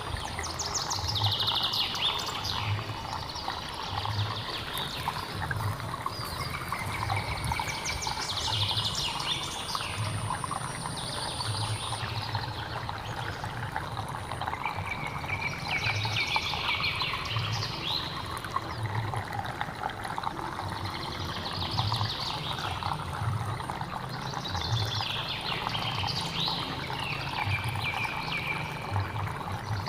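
Running stream water with wild birds singing over it, a song phrase coming back about every five seconds. A soft low pulse repeats about once a second underneath.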